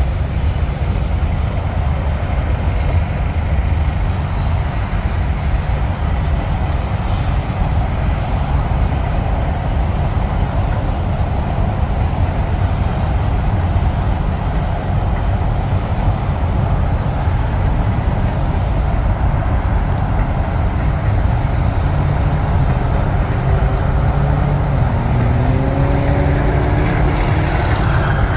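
Freight train cars rolling slowly over a railroad bridge in a steady low rumble, mixed with highway traffic on the interstate below. Near the end an engine tone rises in pitch.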